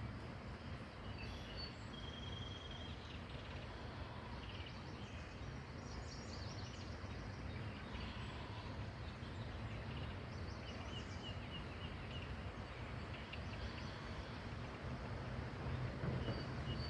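Birds chirping and calling in short bursts now and then over a steady outdoor background hiss.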